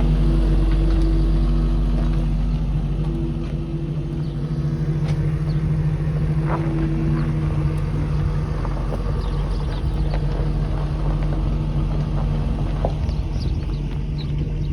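1968 K20 pickup truck's engine running steadily, a constant low hum that eases slightly a few seconds in.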